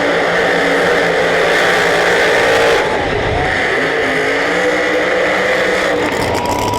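Loud drag race car engines running and revving, their pitch rising and falling. The sound changes abruptly about three seconds in and again about six seconds in.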